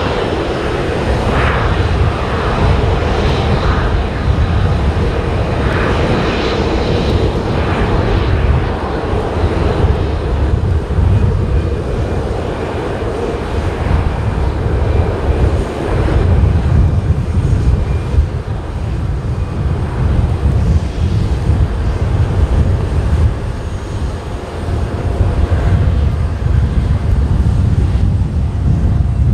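Boeing 737-800 jet engines (CFM56-7B turbofans) running during takeoff: a loud, steady low rumble with a hiss over it, strongest in the first few seconds, in a strong wind.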